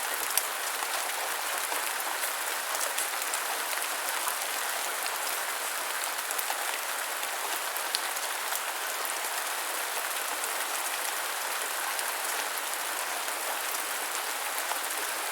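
Steady gentle rain falling, an even hiss with many small scattered drop ticks on a surface.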